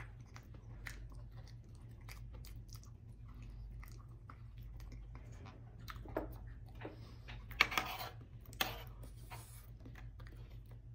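Close-miked, wet chewing of soft, gelatinous boiled beef shank (tendon and skin), with many small mouth clicks. There are a few louder wet smacks about six to nine seconds in.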